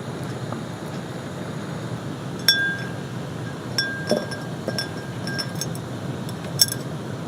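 Camp tableware clinking: several light, ringing clinks about two and a half seconds in, a cluster in the middle and a sharper one near the end, over the steady hiss of gentle rain.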